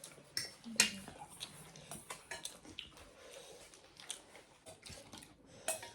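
People chewing and biting food close to the microphone, with small clicks and smacks scattered through, a sharper click just under a second in and another near the end.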